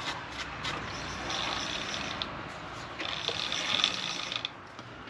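Rubbing and scraping on the metal workpiece in two spells, each a second or so long, with a few light clicks, as the freshly bored spindle housing is handled and wiped for inspection.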